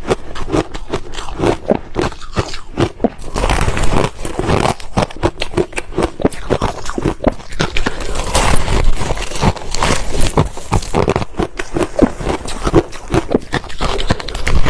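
Ice being chewed: a steady, dense run of sharp crunches, several a second.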